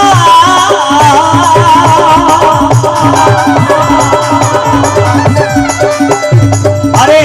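Indian folk devotional music: a wavering, ornamented melody over steady drum and rattle percussion.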